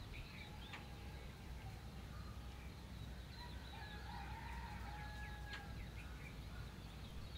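Birds calling and chirping, many short scattered calls with a few longer ones, some of them like rooster crowing, over a low steady rumble.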